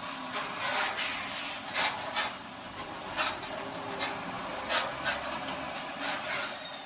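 Road traffic noise with several sharp knocks or rattles spread through it, and a brief high squeal near the end.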